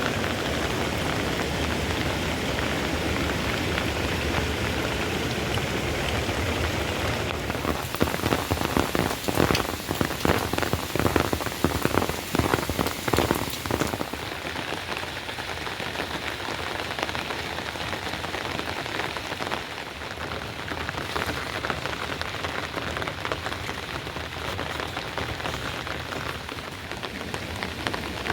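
Steady rain falling, a continuous patter, with a stretch of louder, sharper taps and clicks about eight to fourteen seconds in.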